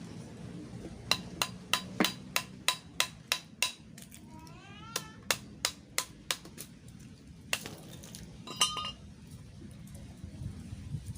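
Hammer blows on the steel shell of a scrap refrigerator compressor being broken open for its copper windings: a quick run of sharp metal strikes at about three a second, a short pause, a second run, then a couple of single hits, the last one ringing. A cat meows once in the pause.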